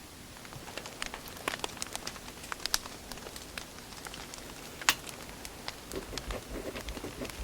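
Wood fire crackling: irregular sharp pops and snaps, the loudest about five seconds in, over a soft steady hiss of burning logs.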